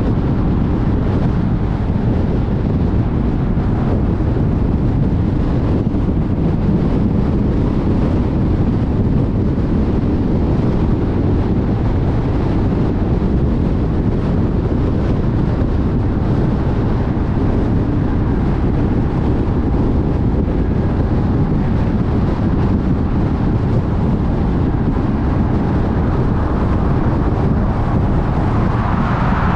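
Car driving at freeway speed: a steady rumble of tyres on the road with wind noise. A higher hiss swells near the end.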